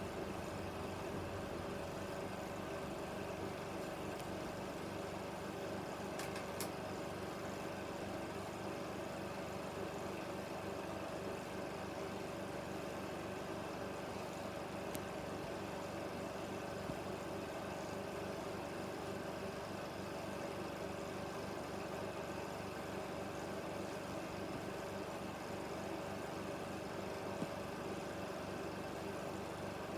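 16mm film projector running: a steady motor and fan hum with a constant whirr of film through the mechanism, with a couple of faint ticks.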